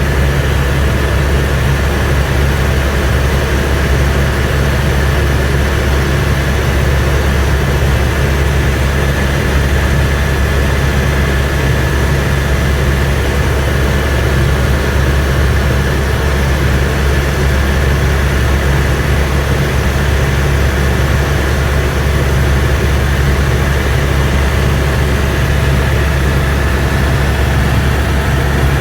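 AS350 B2 single-turbine helicopter in flight heard from inside the cabin: a loud, steady rotor and engine rumble with a constant high turbine whine over it.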